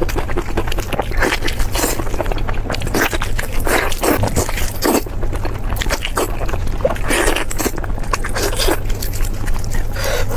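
Crunchy, irregular biting and chewing of crispy lamb chops, over a steady low hum.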